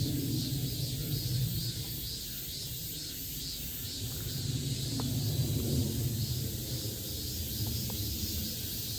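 Insects buzzing in an even pulsing rhythm, about two to three pulses a second, over a low steady rumble.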